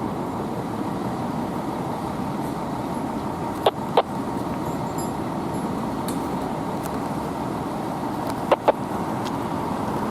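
A fire engine runs amid steady street traffic noise. Two pairs of short, sharp blips come about five seconds apart.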